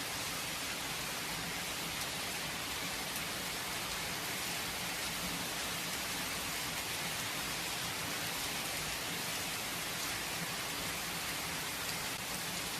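Steady rain falling, an even hiss that does not let up, with no thunder.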